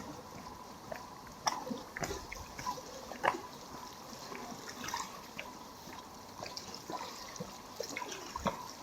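Small sea waves lapping against the stones of the shore, with irregular drips, splashes and trickles of water.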